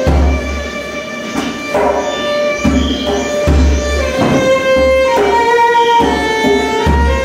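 Violin playing long held notes that move from pitch to pitch, over a deep, repeated drum beat.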